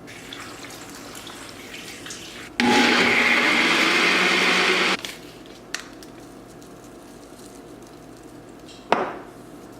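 Countertop blender running in one burst of about two seconds, starting and stopping abruptly, blending a fruit and protein shake. A single sharp knock comes near the end.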